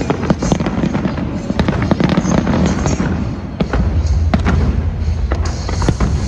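Aerial fireworks going off: a rapid run of sharp bangs and crackles over a continuous low rumble of bursts, the rumble getting heavier a little past halfway.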